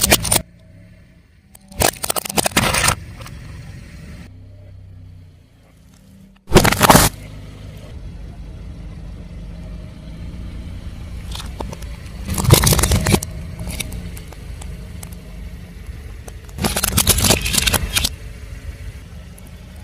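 A car's engine running slowly while its tyre rolls over and crushes objects, with about five loud crunching, crackling bursts spread through, each lasting under a second or so.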